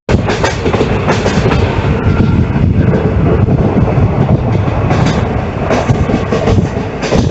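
Train running on the rails: a loud, steady rumble and rattle of the coaches with frequent clatter of wheels over the track.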